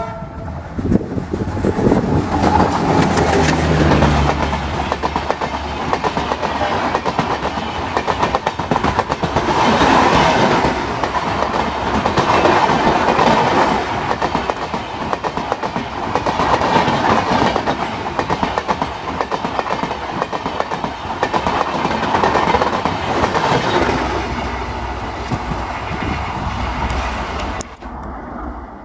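Train running past at speed, its wheels clattering over the rail joints in a dense, continuous racket that swells and fades every few seconds, with a low engine rumble in the first few seconds; the level drops suddenly near the end.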